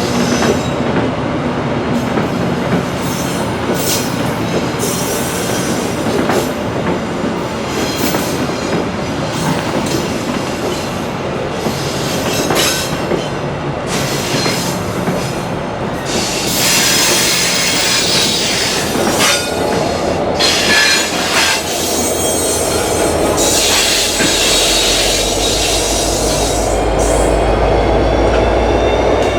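A train rolling past: a steady rumble of wheels on rail with repeated clicks, and stretches of high-pitched wheel screech. A deeper rumble builds near the end.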